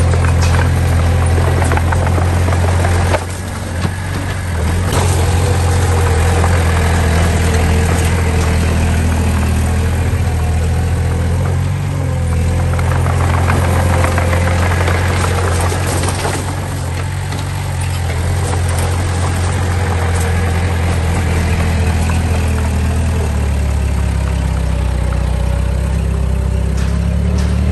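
Diesel engines of dump trucks and a small bulldozer running steadily with a loud low drone and scattered clatter, dipping briefly about three seconds in.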